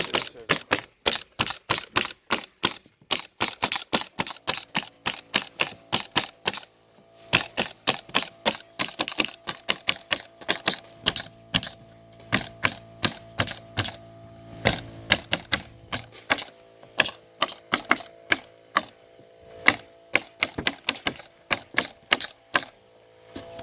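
Stinger CN100 pneumatic cap nailer firing in rapid succession, several sharp shots a second, as plastic-capped nails are driven one after another, with a short break about seven seconds in.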